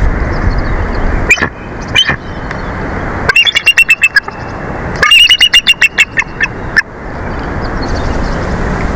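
Bald eagle calling: two single high calls, then two rapid chattering runs of high piping notes, over steady wind noise on the microphone.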